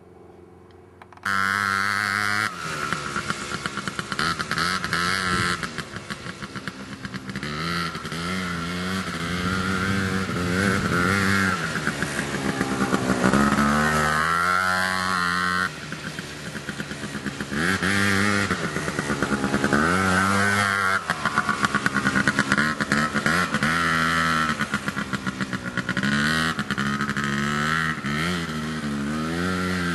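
Apache SX100 junior quad bike engine running, starting abruptly about a second in, then revving up and easing off again and again, its pitch rising and falling.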